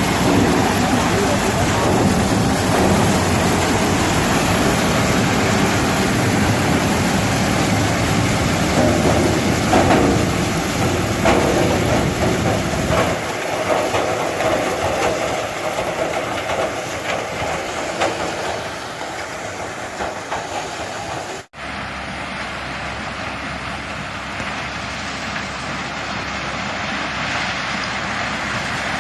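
Tractor-driven corn harvester running steadily, a dense mechanical racket with a heavy low rumble that thins out about halfway through. A momentary gap about two-thirds of the way in, after which the machine noise carries on.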